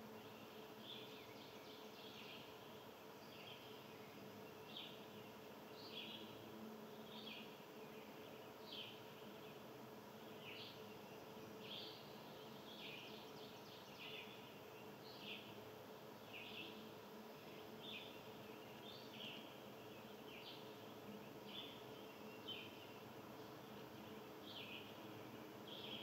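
Small birds chirping faintly: short, high chirps repeated about once a second, over a faint steady hum.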